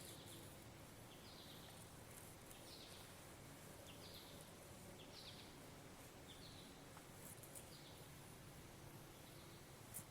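Near silence with a faint bird calling: short high chirps repeated about once a second. A single light click near the end.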